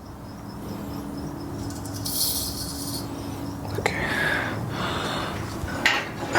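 Low rumbling and scraping with a sharp metal knock or two near the end, as a Corvette LS6 engine hanging from a shop hoist is pushed and shifted into place.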